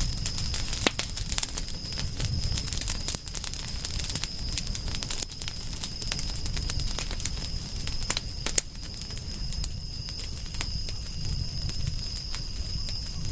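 Campfire crackling: irregular sharp pops and snaps of burning wood over a low rumble of flame. A steady high-pitched tone sits under it throughout.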